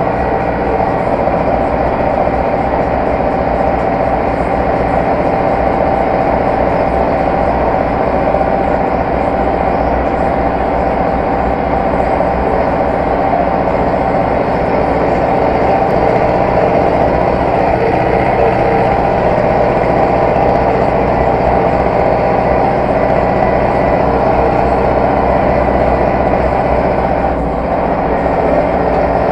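Zetor tractor diesel engine running steadily at working speed.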